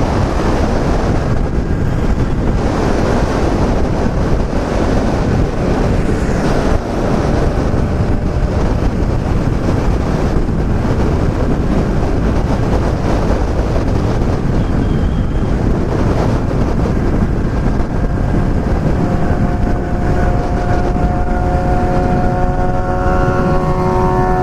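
Motorcycle riding at speed: heavy wind noise on the helmet microphone over the running engine of a Yamaha MT-07 parallel twin. From about three-quarters of the way in, a steady engine drone with a clear pitch rises above the wind.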